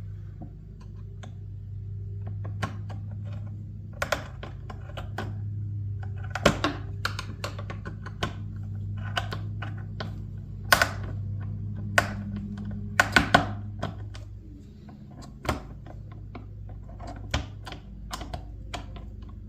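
Irregular sharp clicks and light knocks of hand tools tightening the screws on hose clamps that hold a rubber hose onto a dishwasher pump. A low steady hum runs underneath and fades out about two-thirds of the way through.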